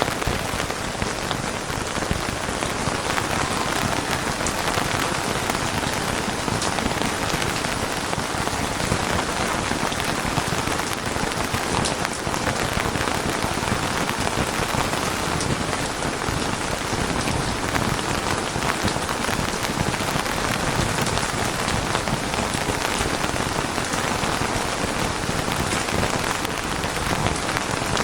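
Steady rain falling on a surface, a dense even hiss of many small drop patters.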